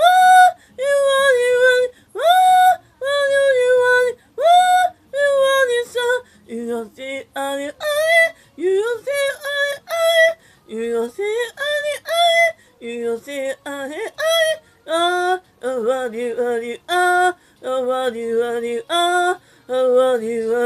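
A woman singing unaccompanied in short, high phrases with brief gaps between them. The notes bend and leap between phrases.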